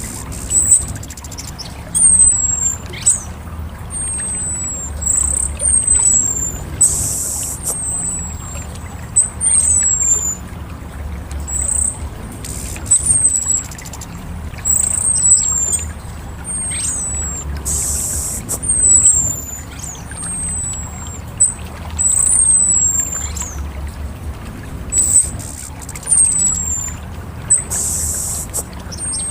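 Orange-headed thrush calling: short, very high notes that slide downward, repeated every second or two, with a few brief hissy bursts between them. A low hum runs underneath.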